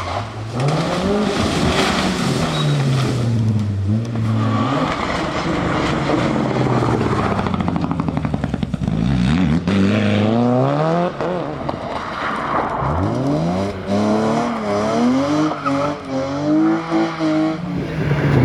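Rally car engine under hard acceleration, its pitch climbing and then dropping with each gear change and lift of the throttle, with a rapid stuttering rattle about halfway through.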